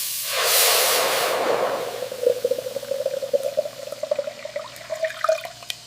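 Liquid pouring into a container: a hiss at the start, then a bubbling tone that rises slightly in pitch as the vessel fills, with a few drips near the end.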